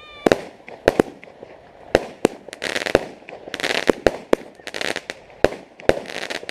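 Fireworks going off: a string of a dozen or so sharp bangs at irregular intervals, with bursts of crackling fizz between them.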